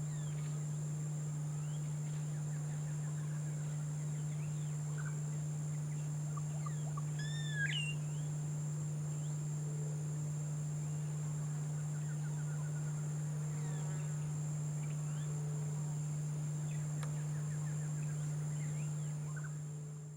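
Outdoor ambience under a steady low hum and a steady high insect drone. Scattered short bird calls come through, and one louder rising whistled call sounds about seven and a half seconds in. The sound fades out at the end.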